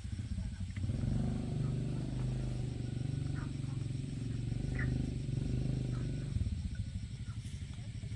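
A small engine running with a steady low pulse. It comes up about a second in and eases off after about six seconds.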